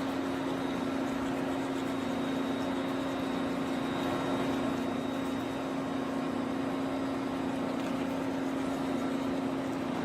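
Steady machine hum with one constant low tone over a hiss.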